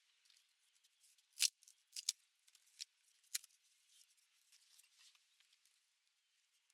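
A few sharp clicks or snaps, the loudest in the first half, over a faint high hiss.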